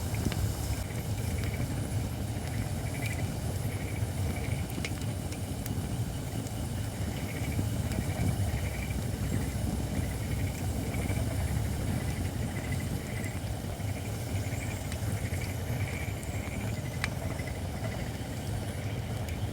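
White oak (shirakashi) logs burning in an open fire pit, giving a few sharp crackles over a steady low rumble. A faint high-pitched pulsing repeats about twice a second in the background.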